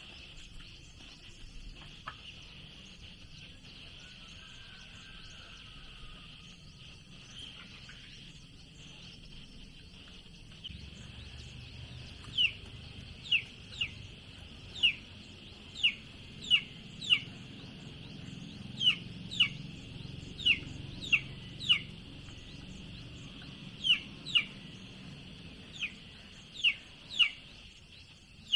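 Bird chirps: short, sharp notes sliding downward, repeated irregularly about once or twice a second from about twelve seconds in, over a steady high insect buzz.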